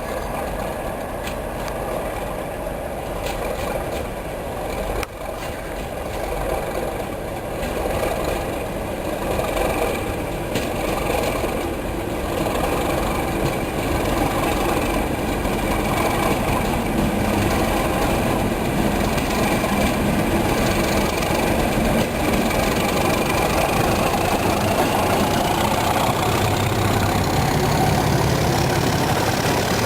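Class 37 diesel-electric locomotives' English Electric V12 engines idling, with a rising whine over the last several seconds.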